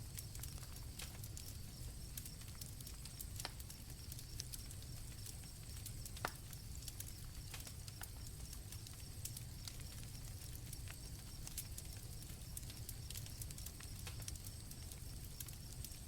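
Campfire crackling with irregular sharp pops over a low steady rumble, one louder pop about six seconds in, while crickets trill steadily and high-pitched.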